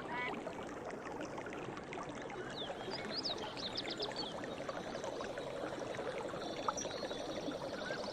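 Forest ambience: running water from a stream, with birds calling over it. There are a few quick chirps about three seconds in and a fast high trill starting near the end, and a low, rapid pulsing call joins from about halfway.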